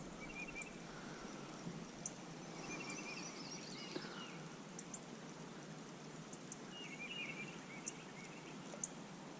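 Faint outdoor ambience with scattered short bird chirps and calls, some high and very brief.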